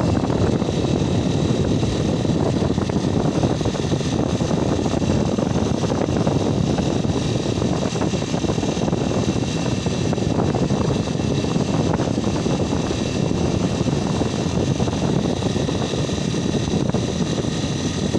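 Steady running-vehicle noise with faint steady high tones above it.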